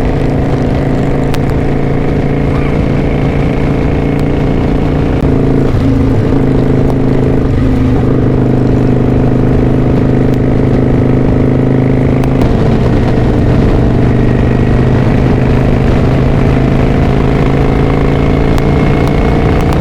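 V-twin cruiser motorcycle engine running under way. The engine note holds steady, then shifts in pitch a few times as the rider works the throttle and gears.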